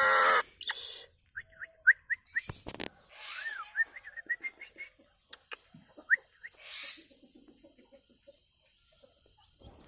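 Nias hill myna calling: a loud, rich call at the very start, then a run of short whistled chirps mixed with a few harsh raspy notes, thinning out toward the end.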